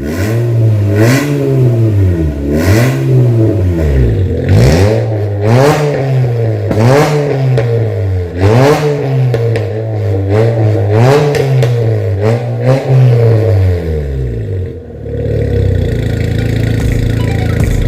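Honda CR-Z's four-cylinder engine revved in repeated quick blips through an aftermarket stainless full-system valvetronic exhaust, the pitch rising and falling about every second and a half. About 15 seconds in it settles to a steady idle.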